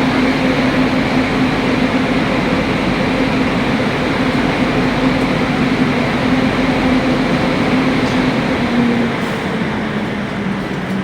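Train running with a steady, loud rumble and a droning hum, easing off a little near the end.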